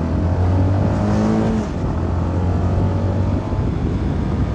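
CFMoto 300NK's single-cylinder engine running at low road speed, with a brief rise in pitch about a second in; a steady low hum under it fades out about three seconds in.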